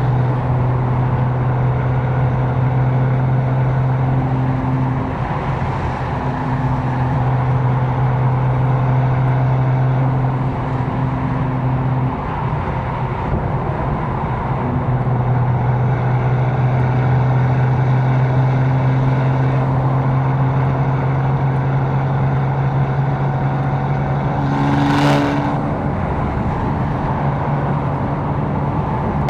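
Tuned twin-turbo inline-six of a 750 hp BMW M4 cruising with a steady drone, which drops out briefly a few times. A short burst of hiss comes about 25 seconds in.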